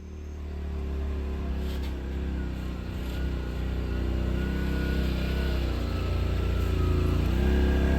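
Side-by-side UTV engine running under way, its note dipping briefly about three-quarters of the way through and then climbing again as it speeds up.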